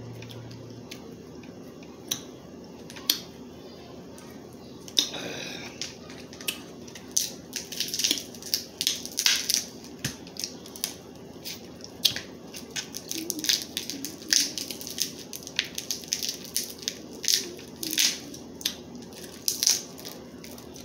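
Crab leg shells being cracked and snapped apart, a long irregular run of sharp cracks and crunches that comes thicker from about seven seconds in.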